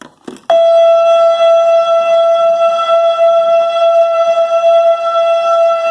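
Fire truck siren starting abruptly about half a second in and holding one loud, steady tone.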